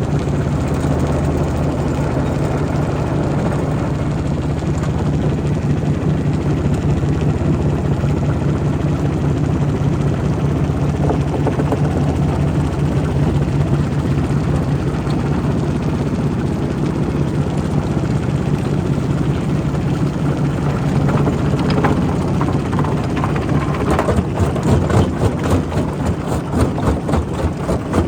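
Quarry rock crusher running with a steady, heavy low drone and occasional knocks of stone. Near the end a rapid clatter of impacts sets in.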